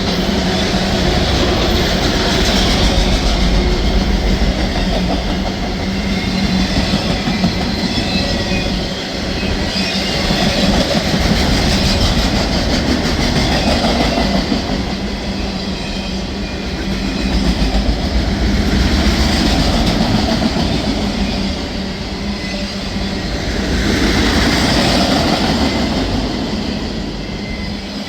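Freight train of empty autorack cars rolling past, a continuous rumble and clatter of wheels and cars that swells and eases every few seconds, with a faint high wheel squeal at times.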